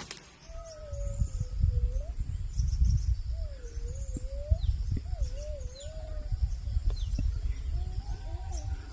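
Low, uneven rumble, with a wavering whine-like call rising and falling three times and faint short bird chirps high above.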